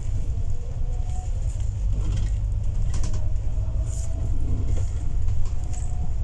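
Steady low rumble of road traffic, with a faint thin whine drifting slightly in pitch.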